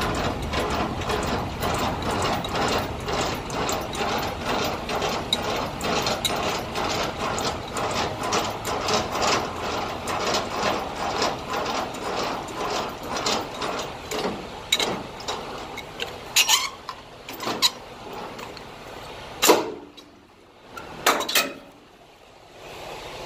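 Semi-trailer landing gear being hand-cranked: a long fast run of even ratcheting clicks, then a few separate metal clanks near the end. This is the landing gear being lowered to drop the trailer.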